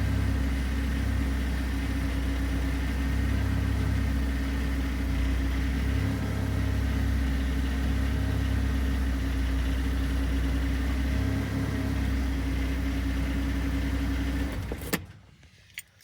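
1995 Porsche 968's 3.0-litre inline-four idling steadily while warming up from a cold start. About fifteen seconds in it is switched off and the sound cuts off suddenly with a click, followed by a couple of faint clicks.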